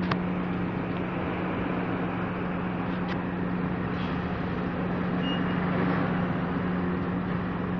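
Heavy machinery running steadily during cargo handling on a container ship: a constant low hum over a broad mechanical drone, with a few faint clicks.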